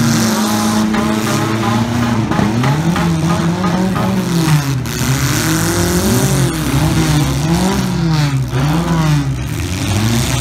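Demolition derby cars' engines running hard: one holds a steady note at first, then revs rise and fall over and over, about once a second, as the cars push and back off.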